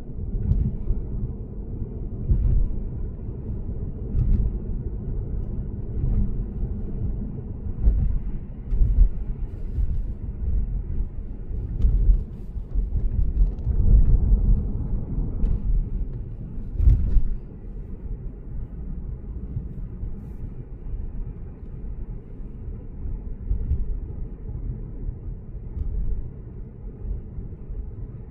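Steady low tyre and road rumble of a Lexus GS450h cruising on an expressway, with a few sharp thumps. The rumble becomes quieter about two-thirds of the way through.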